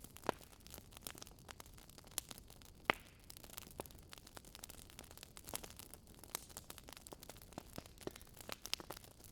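Wood fire crackling, with irregular sharp pops over a faint hiss, the loudest near the start and about three seconds in.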